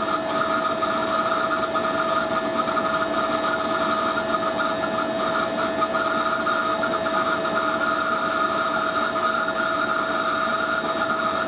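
Hoover A3060 Electronic 1100 washing machine spinning at speed, a steady unchanging whine with a high screech from its dry, little-used motor bearings.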